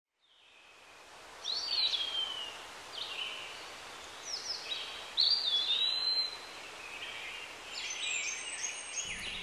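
Birds calling over a steady background hiss, fading in from silence at the start: a series of short whistled calls with falling glides, the loudest about five seconds in, and a run of quick chirps near the end.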